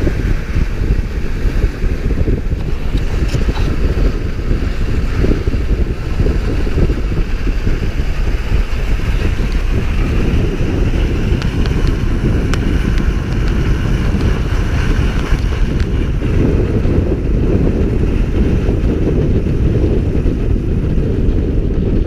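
Loud, steady rumble of wind buffeting the microphone over the noise of a moving vehicle.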